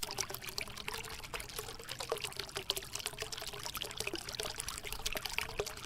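Water trickling and dripping in a small cascade, with many quick, uneven little splashes.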